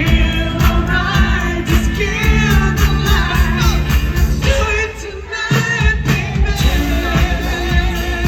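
Live pop music: a singer's vocal lines over a band with a steady beat and bass. The bass and drums drop out for about a second around five seconds in, then come back.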